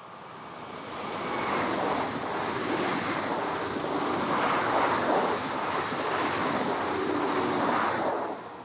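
SNCF train passing by: its noise swells over the first second or two into a steady loud rush, then drops away near the end.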